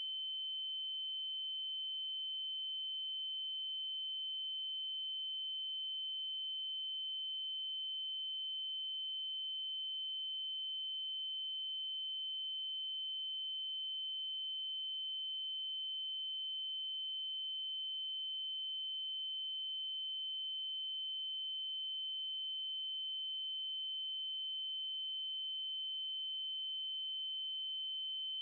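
A synthesized 3072 Hz triangle-wave tone, held steady at one high pitch without a break.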